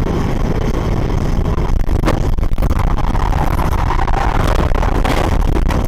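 A car driving: steady engine and road rumble, with a few short knocks about two seconds in and again near the end.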